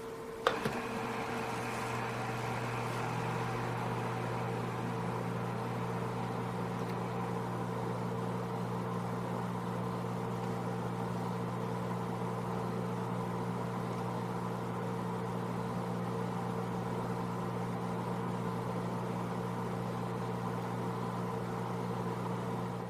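Quartz space heater switched on with a click, then humming steadily as its element vibrates while still cold.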